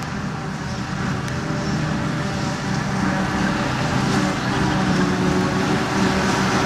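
Heavy farm machinery at silage harvesting, diesel engines running steadily under load, growing somewhat louder about three seconds in.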